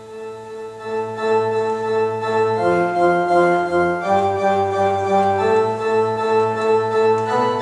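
Organ music: slow, sustained chords that change every second or two, swelling up over the first second.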